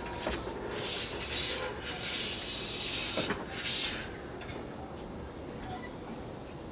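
Several loud bursts of air hissing in the first four seconds, typical of a train's air brakes being applied and released as the trainset is shunted slowly, settling to a quieter steady background.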